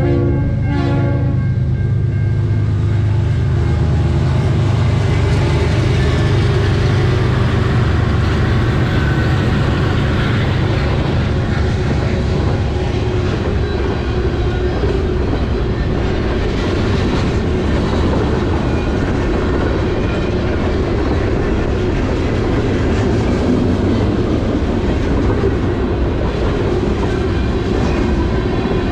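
Freight train passing a level crossing: the locomotive's air horn sounds in short blasts that end about a second and a half in, with the diesel locomotives running loud and low as they come by. Then the freight cars roll past with a steady noise of wheels on rail.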